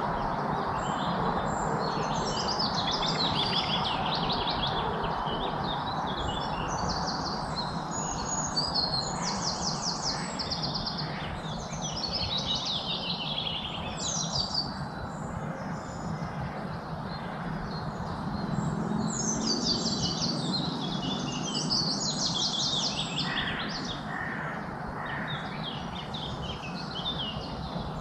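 Several small birds singing at once: quick chirps, rapid trills and falling high-pitched phrases, over a steady background hiss.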